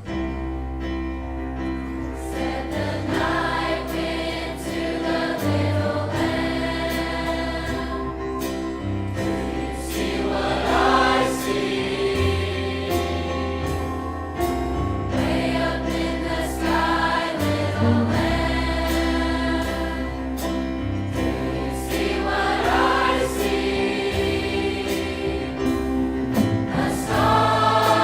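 A large high school choir singing over long held low bass notes that change every few seconds, the singing swelling somewhat louder near the end.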